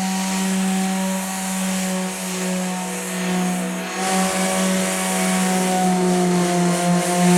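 Electric power sander running steadily against the varnished wooden deck, a constant motor hum under a hissing scrub, sanding back the runs in the clear coat.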